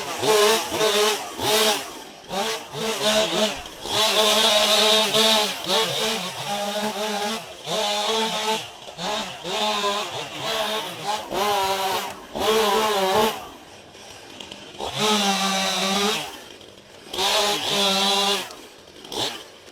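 A small engine revving up and down in repeated bursts, each rev rising and falling in pitch, with a quieter pause about two-thirds of the way through.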